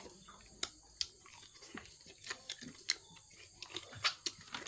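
Close-miked chewing: wet mouth clicks and smacks at irregular intervals, with the louder ones about a second in, near three seconds and around four seconds.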